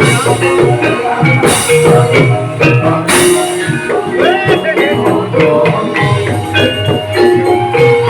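Javanese gamelan-style accompaniment for an ebeg (jaranan) horse dance: struck pitched bars ringing a repeating melody over drum strokes, with bright crashing hits about one and a half and three seconds in.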